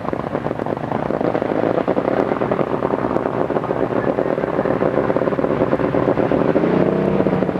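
A steady, rapidly pulsing engine drone. Near the end a pitched tone bends up and down over it.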